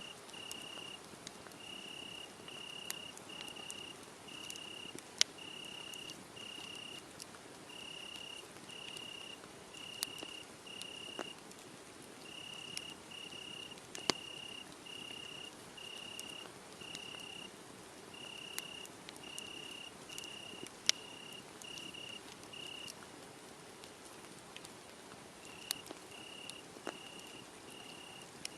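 Crickets chirping in a steady run of short, high chirps about once a second, breaking off for a couple of seconds about three-quarters of the way through. A wood fire crackles underneath, with sharp pops every few seconds that are the loudest sounds.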